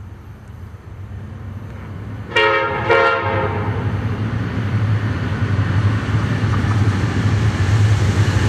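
An approaching freight train's diesel locomotive sounds its air horn in two short blasts, a chord of several tones, a couple of seconds in. Then the low rumble of the diesel engines and the train grows steadily louder as it nears.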